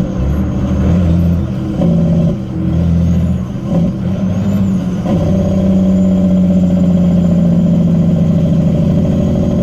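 Cat C15 diesel engine of a 2001 Freightliner truck on its Jake brake (engine compression brake), a loud pulsing rumble likened to snoring. It comes in three short applications over the first few seconds, then holds steady from about halfway.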